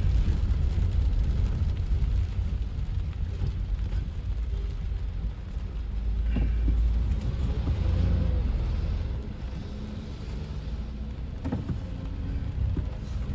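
Car driving on a rain-wet, flooded road, heard from inside the cabin: a steady low rumble of engine and tyres, with a couple of faint clicks.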